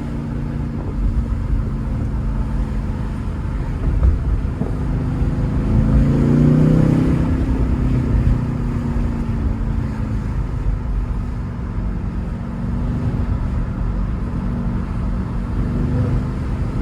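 BMW car driving, with engine and road rumble. About five seconds in the engine note rises as the car accelerates, then eases back to a steady cruise.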